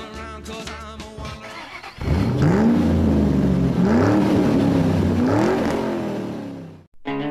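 Early Ford V8 engine being revved three times, each blip rising and falling in pitch over a steady idle, then cut off suddenly. Fading music is heard at the start.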